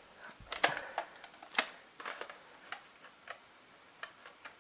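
A series of irregular sharp clicks and light taps, as of hard objects being handled, with the two loudest about half a second and a second and a half in, then fainter ones spaced out after.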